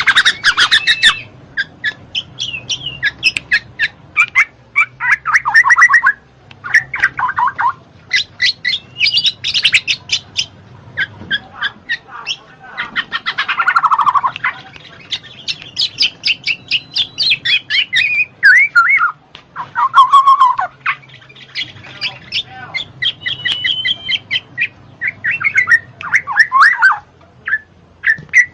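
Black-naped oriole (kepodang) song: a continuous run of rapid repeated chattering notes and quick down-slurred whistled phrases, with a few short pauses.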